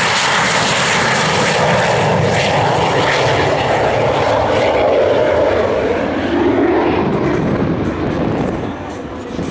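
Gloster Meteor's twin turbojet engines at full power as the jet passes, a loud, steady jet sound whose pitch falls about five to seven seconds in, then fading near the end.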